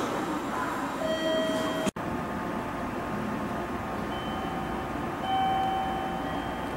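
Electric train standing at a station platform, its onboard equipment giving a steady hum. A few short electronic tones sound over it in the last couple of seconds.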